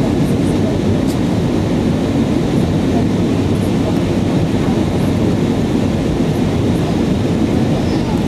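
Steady low rumble of cabin noise inside an Airbus A319 airliner in flight on approach: engine and airflow noise heard from a passenger seat.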